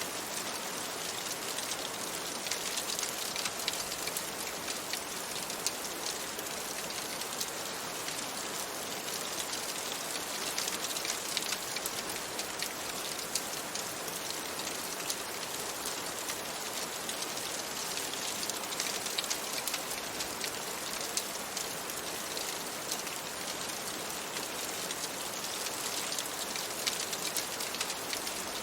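Steady rain on a window: an even hiss with many fine ticks of drops.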